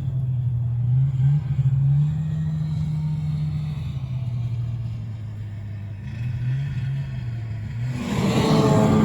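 Engine running, its pitch rising and falling a few times as it is revved, growing louder near the end.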